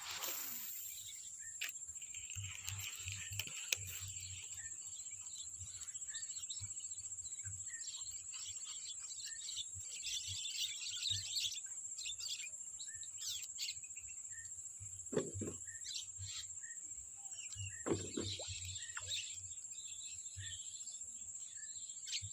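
Quiet outdoor ambience: a steady high drone throughout, with scattered bird chirps and a few faint clicks.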